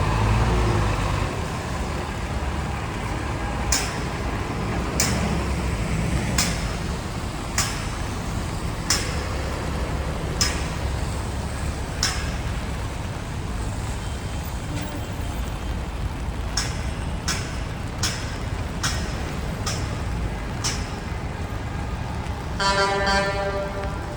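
Traffic on a wet city avenue: a steady low rumble of passing vehicles and tyre noise, with short sharp clicks every second or so. A vehicle horn honks once near the end, lasting about a second.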